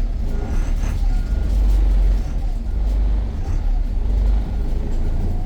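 VDL Pulsar single-deck bus on the move: a steady low engine and road rumble, with a few faint short higher tones over it.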